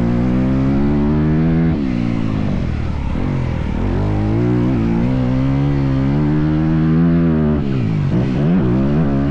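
Motocross bike engine under hard throttle, its pitch dropping sharply a couple of seconds in, climbing again, holding steady, then rising and falling quickly several times near the end as the throttle is rolled off and on.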